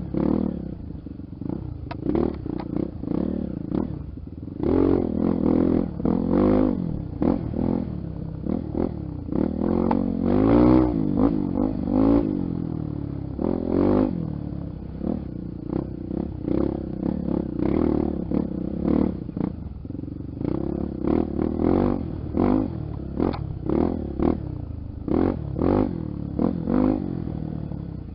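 Honda XR 250 Tornado's single-cylinder four-stroke engine running on a dirt trail, its revs rising and falling again and again as it accelerates and backs off, with frequent knocks and rattles from the bike over rough ground.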